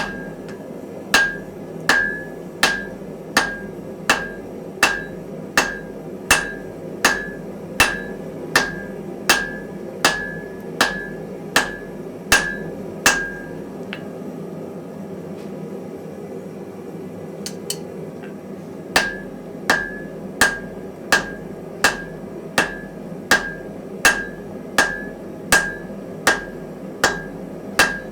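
Steady hammer blows on hot iron at the anvil, about one and a half a second, each with a short bright ring, over the constant rush of a gas forge. The blows stop for about five seconds midway, then start again at the same pace.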